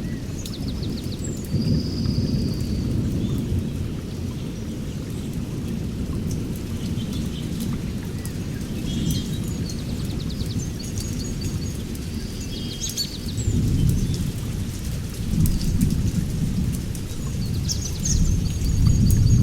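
Rolling thunder with steady rain: a continuous deep rumble that swells about two seconds in and again three times in the last third. Short series of faint high chirps sound now and then above it.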